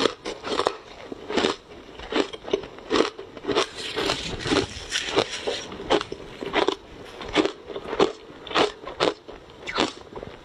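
Ice being bitten and chewed close to the microphone: an uneven run of sharp, crisp crunches, about two to three a second.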